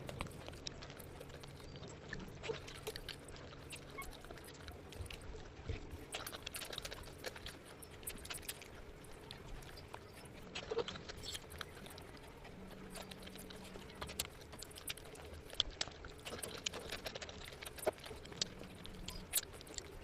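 A person chewing and eating close to the microphone, with many small wet mouth clicks and smacks scattered irregularly.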